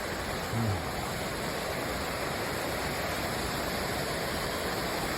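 Steady rush of a mountain river running over small waterfalls and cascades below the trail.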